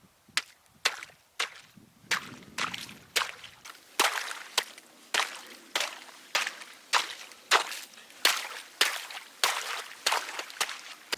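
A steady series of sharp chopping strikes, about one every half-second or so, which grow louder about four seconds in.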